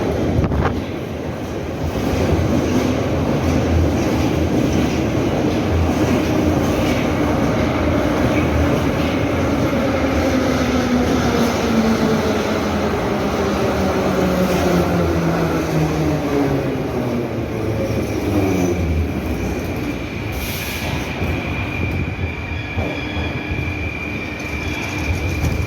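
Moscow Metro 81-717/714 train running on the rails, its traction motor whine falling steadily in pitch as the train slows. Near the end a thin, high wheel or brake squeal holds steady.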